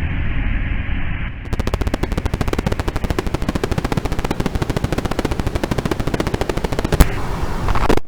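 A low rumble, then from about a second and a half in, rapid, evenly spaced automatic machine-gun fire that runs for several seconds, followed by a single sharp bang near the end.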